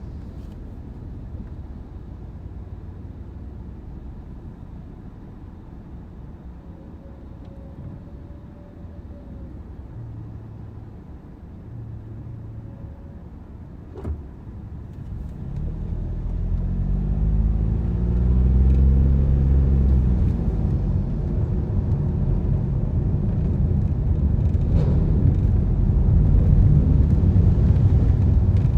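Car driving. Quiet, low engine and road rumble for the first half, a single sharp knock about 14 seconds in, then the engine revs rise as the car accelerates and the tyre and road noise grows louder and stays up.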